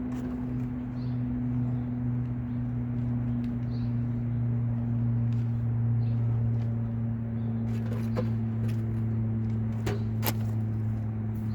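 Steady low electrical or mechanical hum from a running appliance or machine, with a few light clicks and knocks near the end.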